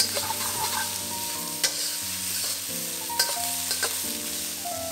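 Prawns sizzling in a hot wok while a metal wok spatula stirs and tosses them, with two sharp clanks of the spatula against the pan about a second and a half apart.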